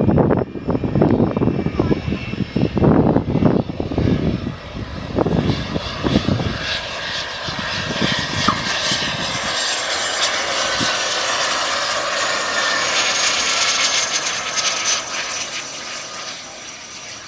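Cessna Citation Mustang's twin Pratt & Whitney PW615F turbofans whining during a touch-and-go pass, the high whine rising to a peak and then fading as the jet goes by. Wind buffets the microphone in the first few seconds.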